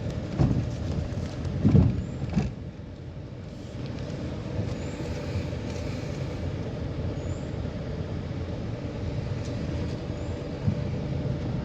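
Vehicle engine running steadily while driving, with a few loud low thumps in the first couple of seconds and another near the end.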